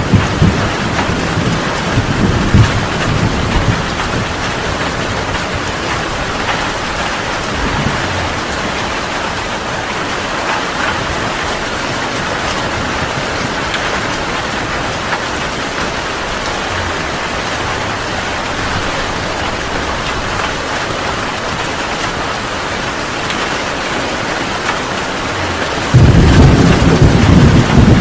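Heavy rain pouring steadily. Thunder rumbles in the first few seconds and dies away, and a louder roll of thunder breaks in suddenly near the end.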